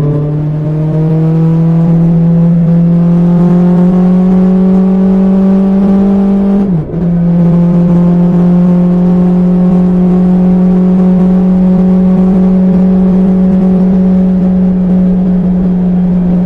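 BMW S1000XR inline-four engine running through an Akrapovic exhaust while riding, its note climbing slowly under steady throttle. About seven seconds in the pitch and loudness dip sharply for a moment, then the engine settles back to a steady cruising note.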